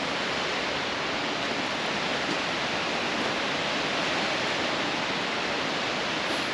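Bâlea waterfall rushing: a steady, even roar of falling water.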